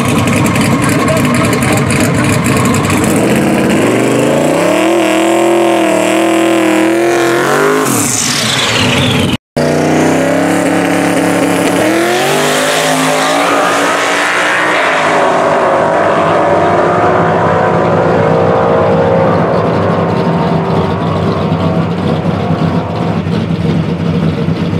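Twin-turbo 4.6-litre two-valve V8 of a 2002 Ford Mustang GT (twin PTE 6466 turbos) on a quarter-mile pass: a steady engine note, then the pitch climbs under full throttle and drops sharply as the car passes. After a brief gap of silence about halfway, the engine climbs again under acceleration and fades as the car pulls away down the track.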